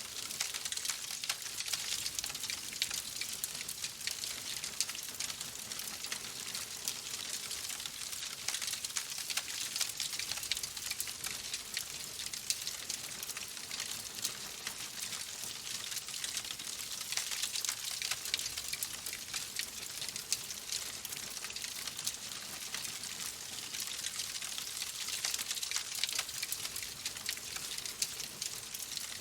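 Fire crackling in a fireplace: a steady hiss with many small sharp pops and snaps throughout.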